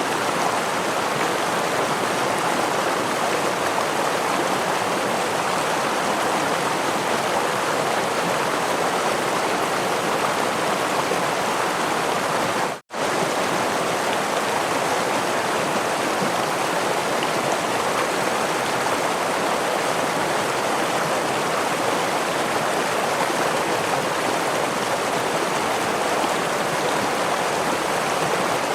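Steady rushing of a forest stream and small waterfall, an even wash of water noise. About halfway through, the sound cuts out completely for a split second and then resumes unchanged.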